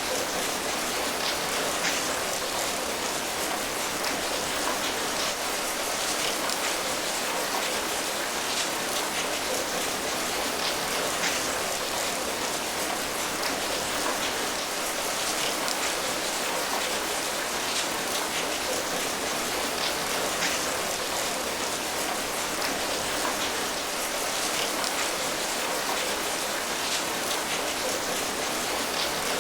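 Steady rain falling, an even patter of many drops landing on a surface, with individual drops ticking through it.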